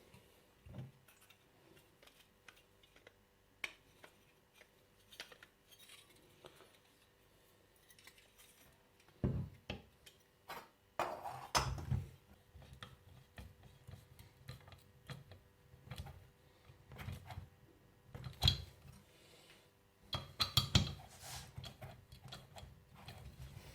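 Scattered clinks, taps and knocks of small metal parts and tools being handled during hand assembly of a model jet turbine's fuel and oil line fittings, with louder clusters of knocks in the middle and near the end.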